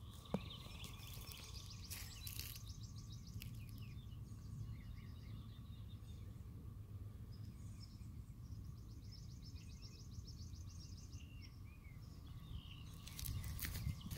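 Small birds singing, with long trills of rapidly repeated high notes, over a steady low rumble. A few sharp knocks near the end.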